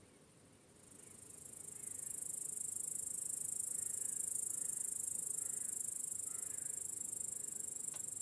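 Crickets trilling in a dense, high-pitched, fast-pulsing chorus that swells up over about a second, holds steady, and cuts off abruptly at the very end. A few faint chirps sound underneath.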